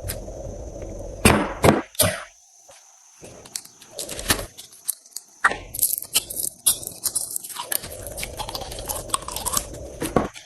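Slime being handled and squished, giving a run of crackling clicks and crunchy pops, with two loud sharp snaps about a second and a half in.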